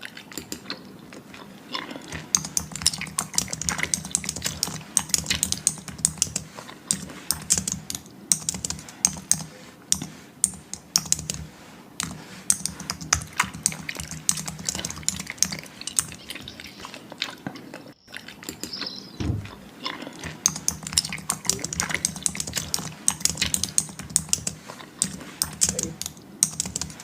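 Keyboard typing: a fast, irregular stream of sharp key clicks over a faint steady low hum, with a brief break about two-thirds of the way through.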